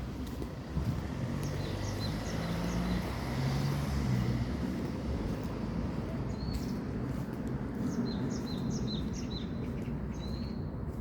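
Small birds chirping in runs of short, high notes, with one longer rising note near the end, over a steady low background rumble.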